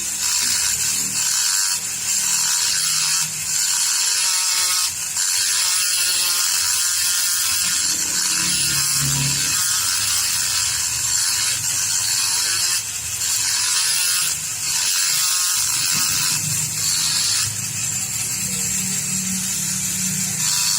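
A small high-speed power tool running in stretches of a second or two, with brief pauses between them.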